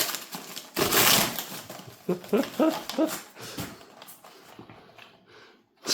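Cardboard and plastic packaging being torn open and handled, loudest about a second in. A few short squeaky whines that rise and fall follow.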